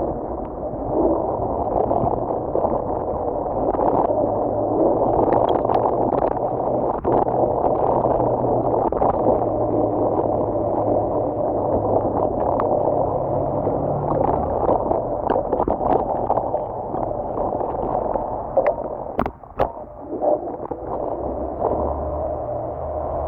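Steady rushing noise with scattered clicks and knocks, dropping away briefly about nineteen seconds in.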